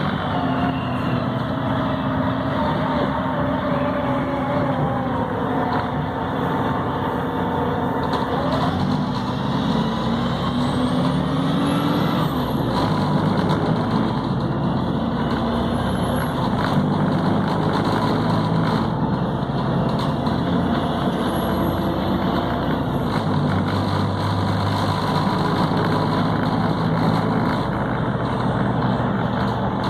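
Volvo B7RLE city bus's six-cylinder diesel engine and Voith automatic gearbox, heard from on board while driving. The revs rise from about nine to twelve seconds in and drop back at a gear change, then the engine runs on steadily.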